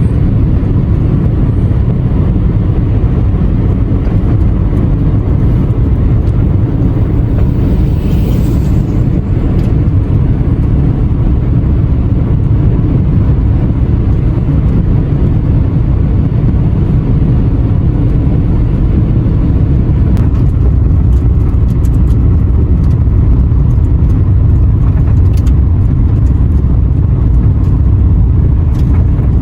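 Car driving on the road, heard from inside: a steady low rumble of engine and tyre noise.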